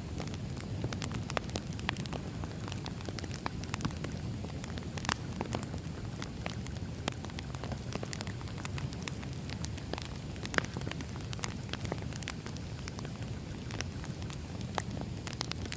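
Burning firewood crackling: irregular sharp pops and snaps over a steady low rumble of flames.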